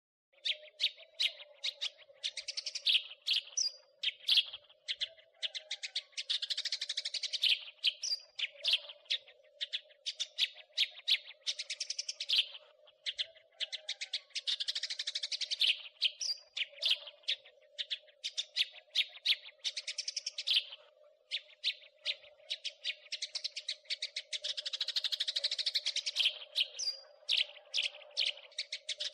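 House sparrow chirping and chattering in fast, unbroken runs of sharp chirps, the busy crecetan chatter.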